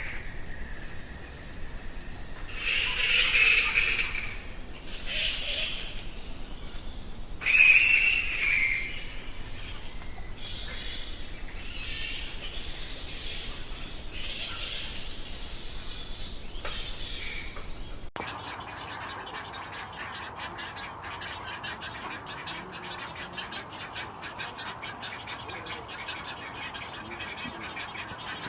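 Birds calling: loud bursts of high chirping about 3 and 8 seconds in, then a sudden cut to a different, duller recording of fast, dense chattering.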